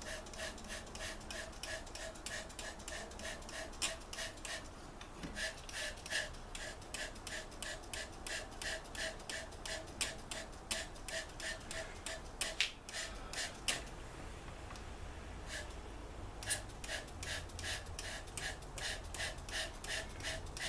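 Rhythmic rubbing or rasping strokes repeated about two to three times a second, each with a squeaky edge, pausing briefly about two-thirds of the way through.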